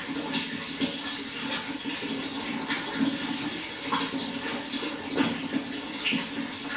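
Flowing water: a steady rush with small, irregular splashes and gurgles.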